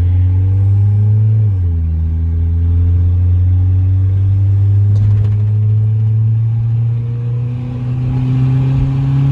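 Turbocharged Honda Civic engine pulling under acceleration, its revs climbing. About a second and a half in the revs drop at an upshift, then climb steadily again.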